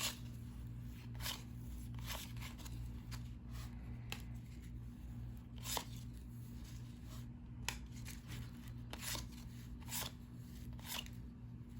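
1990-91 NBA Hoops basketball cards being flipped through by hand: irregular light clicks and slides of card stock, a few every couple of seconds, over a steady low hum.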